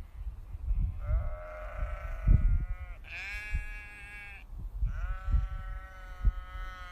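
Sheep bleating: three long, wavering bleats one after another.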